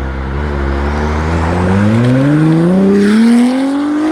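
A car engine accelerating hard, its pitch rising steadily through one long pull in a single gear.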